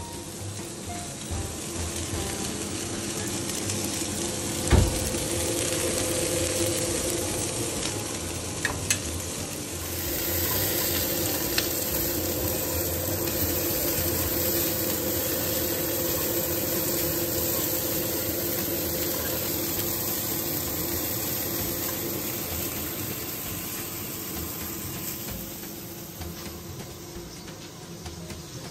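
Grilled food sizzling: a steady crackling hiss that grows louder about ten seconds in and fades near the end, with a single knock about five seconds in.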